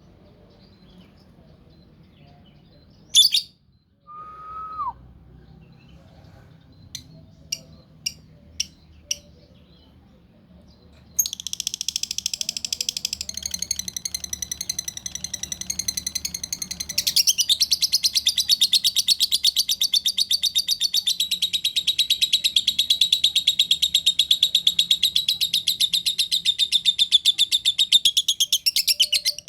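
Lovebird ngekek: a few short chirps, then one long, unbroken, rapid chattering trill that starts about a third of the way in and gets louder partway through.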